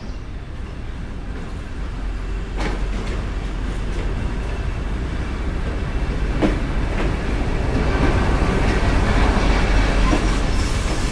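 MEMU commuter train running, heard from inside the coach: a steady rumble that grows louder, with a couple of short knocks from the wheels and a thin high squeal starting near the end.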